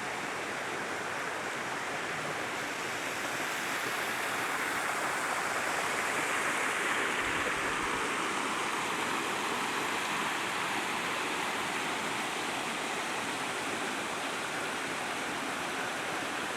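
Waterfall: a steady rush of falling water, a little louder around the middle.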